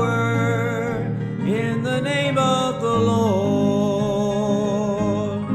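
Country-style gospel song: a singer holds long notes, sliding into a long held note about three seconds in, over plucked guitar accompaniment.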